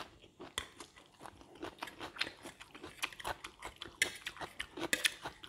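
A person chewing a mouthful of fried rice with crispy pork cracklings close to the microphone: irregular small crunches and mouth clicks. A metal spoon clinks against the ceramic plate about four seconds in.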